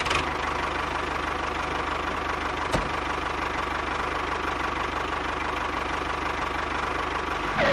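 Mini tractor's engine running steadily at idle, with a fast, even knock. One sharp click about three seconds in.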